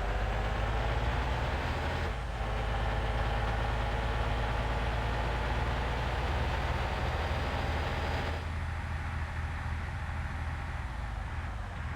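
Truck engine running with a steady low rumble, its pitch rising slowly as it pulls, then easing off about eight seconds in.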